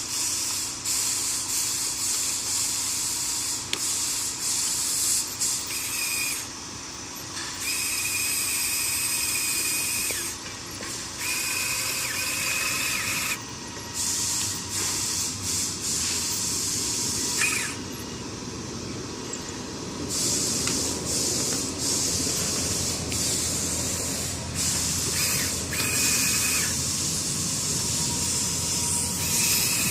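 Radio-controlled model D11 bulldozer working: its small electric drive motors and gearboxes whine in repeated short bursts over a steady hiss of the machine grinding along.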